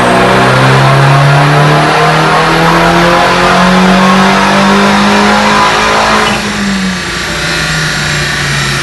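Tuned BMW 320i's B48 turbocharged 2.0-litre four-cylinder through a Fi Exhaust system, pulling under hard acceleration with its pitch climbing steadily for about six seconds. It then lifts off and runs on quieter at a lower pitch.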